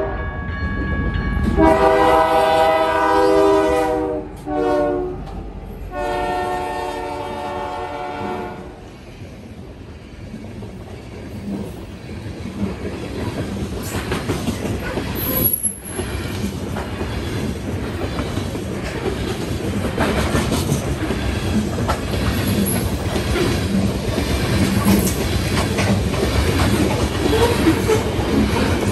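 BNSF diesel locomotive's multi-note air horn sounding a long, a short and a long blast, the signal for a grade crossing, ending about eight seconds in. The coal gondola cars then roll past with steady wheel clatter and rumble, with a brief wheel squeal about halfway through.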